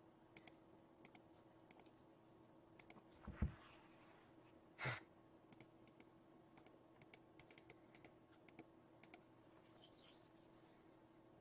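Near silence with scattered faint computer clicks, about one or two a second, over a low steady hum. A soft low thud comes about three and a half seconds in, and a short breathy noise, the loudest sound, about five seconds in.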